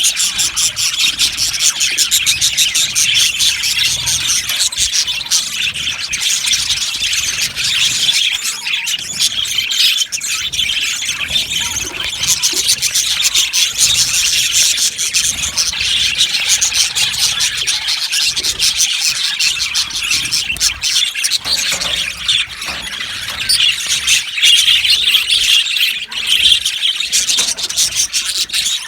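A flock of budgerigars chattering and chirping together, a dense steady wash of overlapping high-pitched warbles and squeaks.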